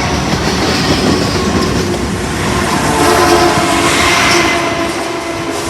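A train running close by, its wheels clattering on the rails, with its horn sounding a held chord over the second half.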